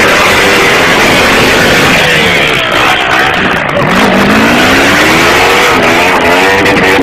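Tractor engine running hard and loud; its pitch dips about halfway through, then rises steadily as it revs up.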